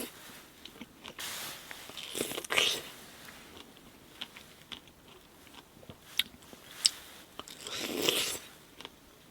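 A person biting into and chewing a large, juicy King's Berry strawberry: a few separate wet bites with chewing and small mouth clicks between them.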